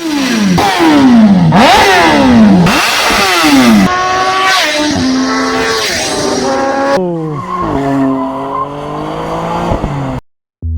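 Superbikes flying by one after another at high revs, each engine's pitch dropping as it passes, with a fresh pass coming every second or so. The engine sound cuts off abruptly near the end.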